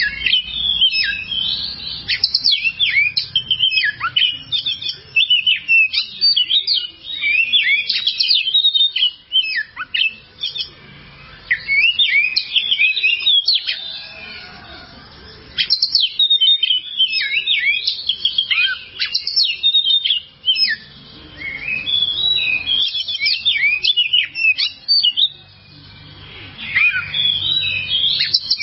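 Oriental magpie-robin (kacer) singing: a fast run of varied whistled and chattering phrases in bursts of several seconds, broken by short pauses.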